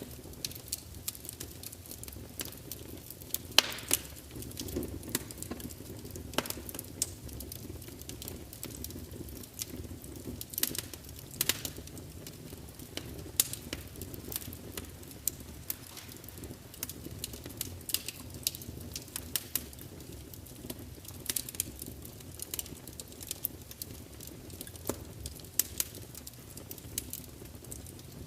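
Wood logs burning in a large open fireplace, crackling and spitting: irregular sharp pops, some louder than others, over a steady low noise of the fire.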